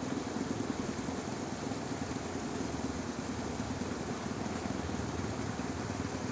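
Frogs in a rice paddy calling in a dense chorus, a steady rapid low pulsing with no break.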